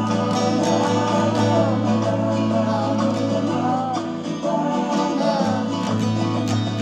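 Acoustic guitar being strummed, with a strong steady bass note underneath and a singing voice carrying a melody over it.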